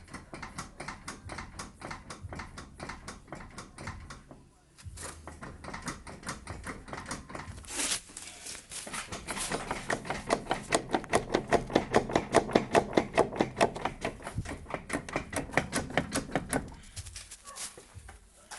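Steering rack of a Volkswagen Passat B5 knocking over and over as the front wheel is worked up and down, about three knocks a second, with a short pause about four and a half seconds in. The knocking is strongest around the middle and fades near the end. It is the sign of play in a worn steering rack.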